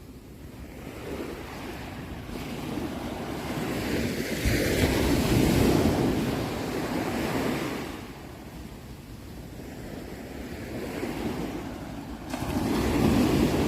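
Ocean surf: a wave builds, breaks and washes in, loudest a few seconds in, then draws back, and another wave surges in near the end.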